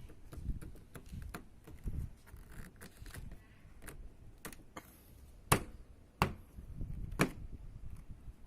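A series of sharp clicks and taps from handling small hard parts and tools, with three louder clicks in the second half over low handling noise.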